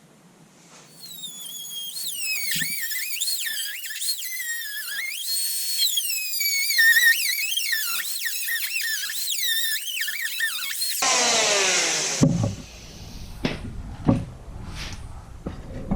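High-speed cut-off tool slicing through rusted sheet steel of a car body panel, its whine dipping in pitch and recovering as the wheel bites. About eleven seconds in it is released and spins down with a falling pitch, followed by a few metallic knocks and clatter.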